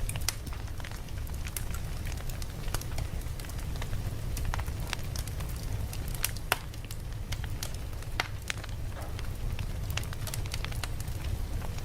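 Campfire burning with irregular crackles and pops over a steady low rumble of the flames.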